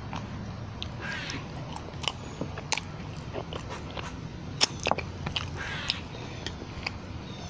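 Close-up eating sounds: a person biting and chewing food, with many scattered sharp wet clicks and crunches.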